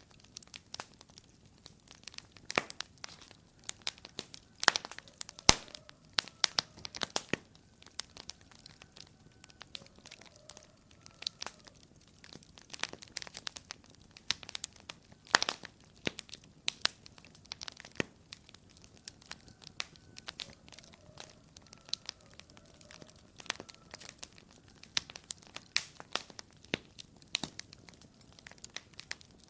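Wood fire crackling in a fireplace: irregular sharp pops and snaps over a faint hiss, with a few louder pops standing out.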